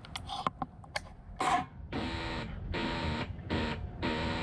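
A 2002 Yamaha 225's electric starter cranking its single-cylinder engine slowly and labouring, after a few clicks, without the engine catching: the battery is too weak to start it.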